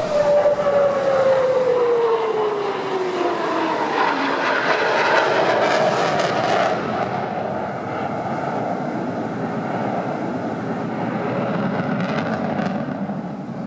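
Jet noise from the twin engines of an F-15SG fighter flying a display pass. A whine falls in pitch as the jet goes by over the first few seconds, then a steady jet rumble follows, with bursts of crackle near the middle and near the end.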